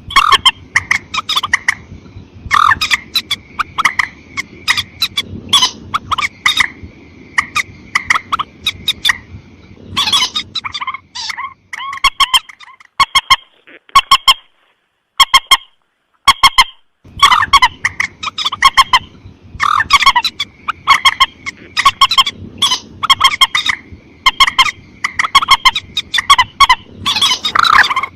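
Recorded lure call of the mandar sawah, a rail: rapid runs of loud, sharp, repeated notes. The calling breaks off briefly about halfway through, then resumes.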